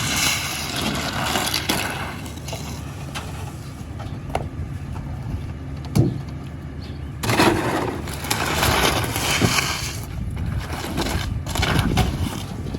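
Garbage truck driving along: a steady engine and road rumble with scattered knocks and rattles. A sharp knock comes about six seconds in, and louder rushing noise follows.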